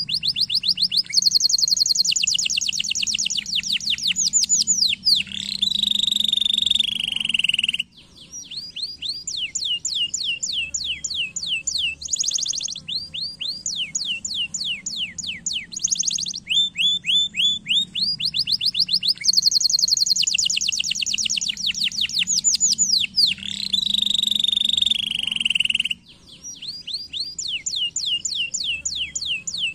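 Domestic canary singing: long, fast trills of rapidly repeated high notes and rolls. The same song sequence comes round again about every 18 seconds, as a looped recording.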